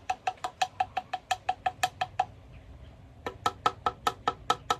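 Opened can of cat food being tapped quickly against the side of a bowl to shake loose food that is stuck inside: two runs of rapid ringing knocks, about six or seven a second, with a short pause between them; the second run is higher in pitch.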